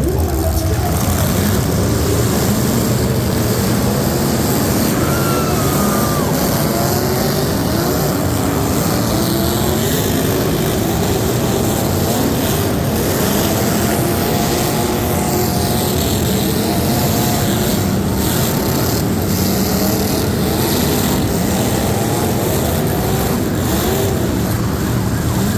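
Truck engines running loud and continuous, their pitch wavering up and down as they rev.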